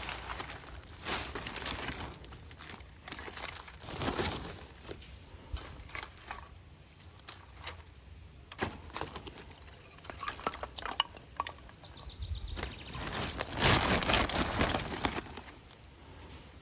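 Irregular rustling, crinkling and snapping of things being handled at a campfire, loudest about four seconds in and again near the end, with a short bird call about twelve seconds in.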